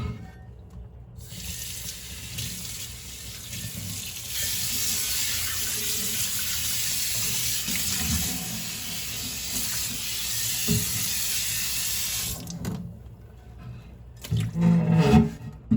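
Kitchen tap running into the sink during hand dishwashing: it comes on about a second in, runs harder from about four seconds in, and is shut off near the end. A few knocks follow.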